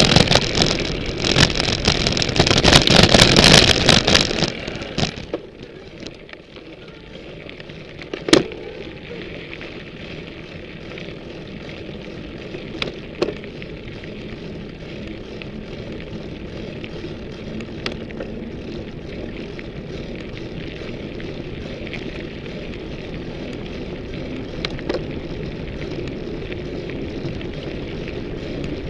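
Ibis Mojo HD 140 full-suspension mountain bike riding a trail, heard from a camera on its frame: loud wind and rattle for the first five seconds, then a quieter steady rolling noise with a few sharp clicks and knocks.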